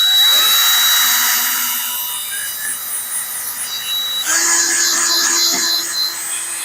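Electric drill running as it bores out a plugged grease hole in a metal bucket-pin bushing, its pitch and sound shifting about four seconds in as the load changes.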